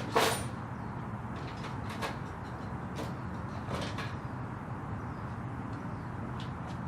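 A sharp clack about a quarter second in, then a few lighter clicks and knocks, over a steady low hum.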